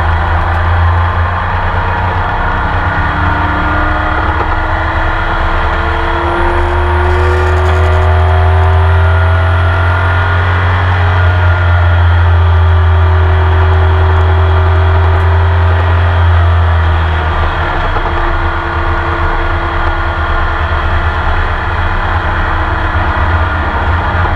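In-car recording of a Porsche 911 RSR flat-six engine running under load. Its pitch climbs slowly through a long pull from about four seconds in and peaks around eleven seconds. It stays loud until about sixteen seconds, then falls back as the driver lifts.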